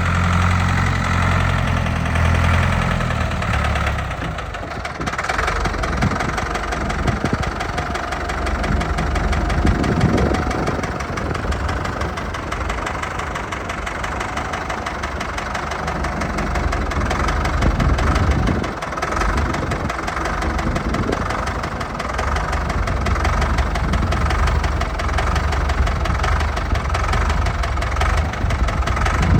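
Ford 6610 tractor's diesel engine running, its engine speed changing a few times.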